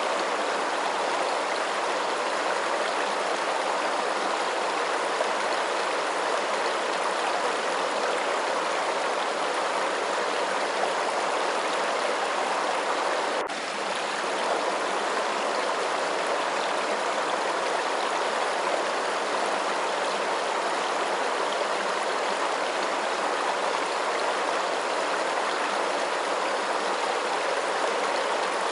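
Steady rushing of flowing water, even and unbroken, with a brief dip in level about halfway through.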